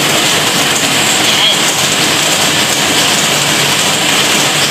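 Heavy rain falling: a loud, steady hiss with no breaks.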